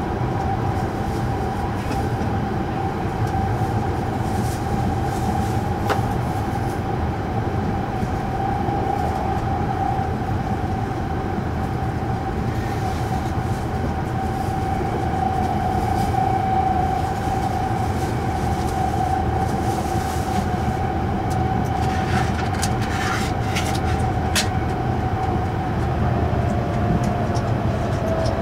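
Cabin noise inside an E5 series Shinkansen car running at speed: a steady rumble of the running train with a steady whine over it, which drifts slightly lower in pitch near the end. A few faint clicks come in the latter part.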